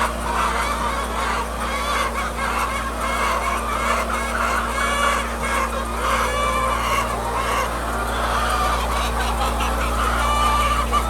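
A flock of hens clucking and calling all at once, many overlapping voices, over a steady low hum.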